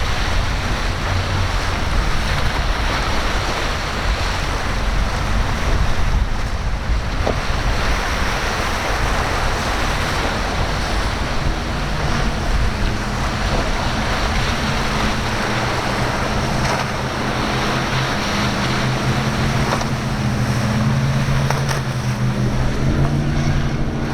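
Waves breaking and wind buffeting the microphone, with a boat's engine drone coming in about halfway through and growing louder toward the end.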